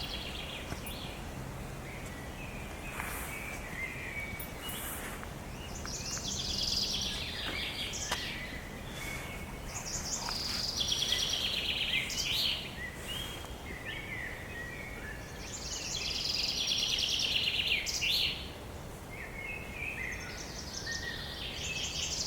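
Songbirds singing: a bird repeats a fast, trilled song phrase about two seconds long, loudest three times in the second half, with fainter calls from other birds between.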